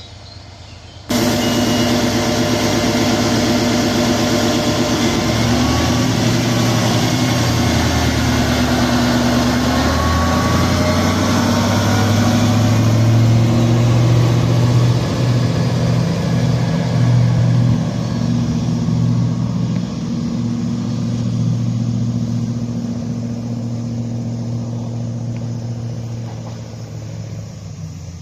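Diesel engine of a train running loud, starting abruptly about a second in, its pitch stepping up a few times as it works harder, then fading near the end.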